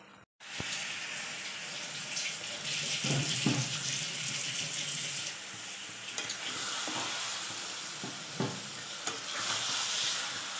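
Jackfruit, jaggery and grated coconut mixture sizzling steadily in a metal pan as it cooks down, with a spoon scraping and knocking against the pan now and then while it is stirred.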